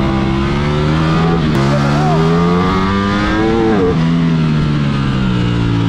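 Ducati Streetfighter V4 S's V4 engine under way through the gears. Its pitch climbs, drops sharply about one and a half seconds in at a gear change, climbs again, falls away around three and a half seconds in, then holds steady.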